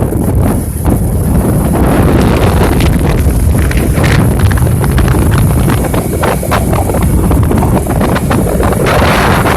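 Wind buffeting the microphone, a loud low rumble, broken by many irregular sharp clicks and knocks.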